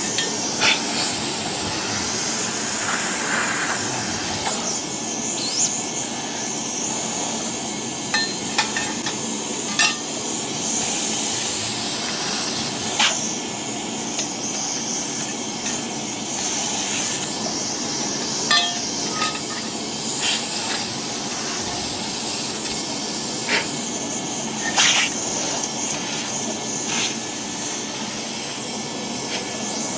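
Soot vacuum running steadily while a nozzle or tools knock and clink against the boiler's metal sections every second or two, as soot is cleaned out of the boiler.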